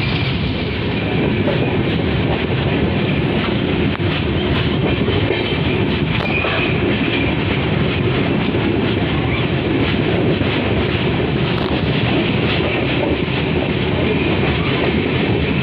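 Passenger train rolling through a station, heard from an open coach door: a steady, loud rumble and clatter of wheels on the rails, with a brief faint high wheel squeal twice.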